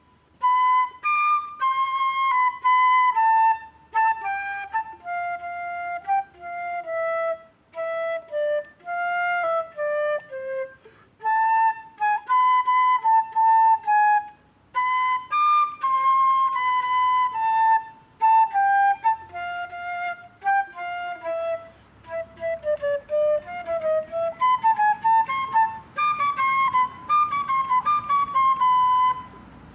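A solo woodwind, flute-like in tone, playing a melody one note at a time in short phrases with brief breaks between them.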